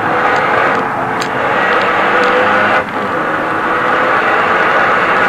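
Renault Mégane RS 250's turbocharged 2.0-litre four-cylinder engine at full throttle, heard from inside the cabin, its pitch climbing through a gear, then dropping briefly at an upshift about three seconds in before climbing again.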